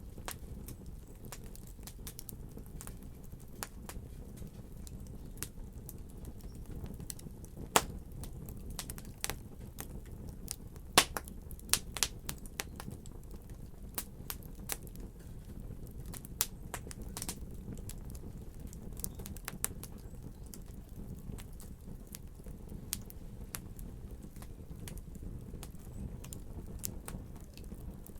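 Fire in a fireplace crackling steadily over a low rumble, with scattered sharp pops, a few louder ones about eight and eleven to twelve seconds in.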